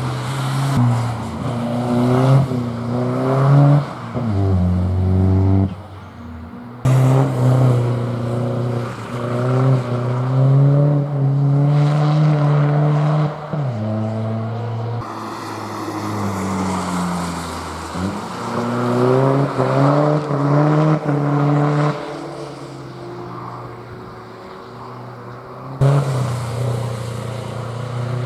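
Hill-climb race car engine revving hard, its pitch climbing and dropping back again and again as it shifts gears and brakes. The sound breaks off and jumps abruptly three times.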